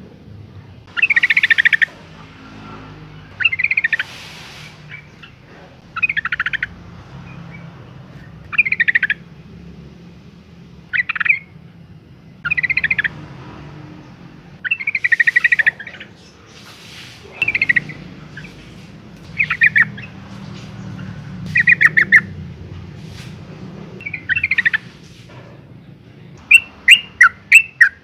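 Yellow-vented bulbul calling: short, bubbly chattering phrases repeated about every two seconds, breaking into a faster run of rapid notes near the end. It is given as a female's call, the kind used to provoke males into singing.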